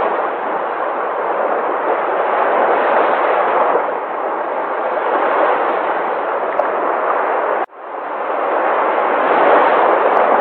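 Sea waves breaking: a continuous wash of surf that swells and eases. About three quarters through it cuts out for an instant, then builds back up.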